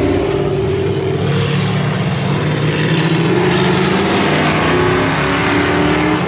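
Car engine running, its pitch climbing a little in the last couple of seconds.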